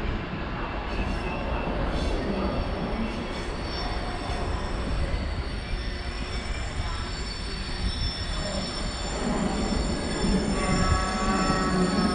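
Train moving through a station: a steady low rumble with high, drawn-out squealing from the wheels on the rails. More squealing tones join about ten seconds in.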